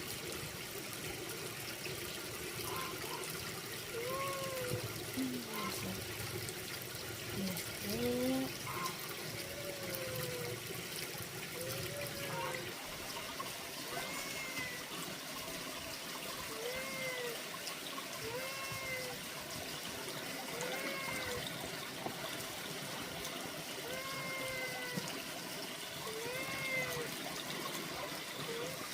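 Water trickling steadily. From a few seconds in, a short rising-and-falling call repeats about every second and a half over it.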